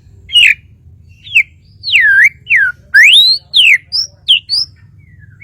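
White-rumped shama (murai batu, Kalimantan type) singing a loud run of about nine clear whistled notes, some sweeping down and some sweeping up. The phrase stops about a second before the end.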